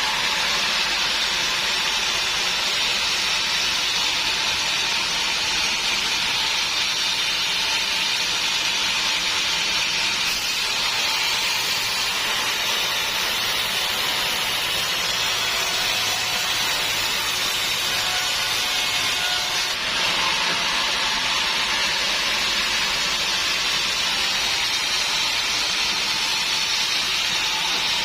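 Sawmill saw cutting through wood: a steady, unbroken hissing whir that shifts slightly about a third and two thirds of the way through.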